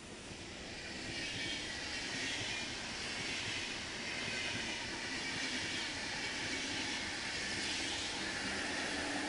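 SBB double-deck passenger train passing at speed, its wheels running on the rails with a steady rushing noise that swells in about a second in, with a faint high whine.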